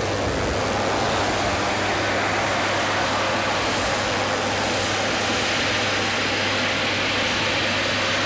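The LoPresti SwiftFIRE's 420 hp turbine engine running steadily, an even rush of noise with a constant whine.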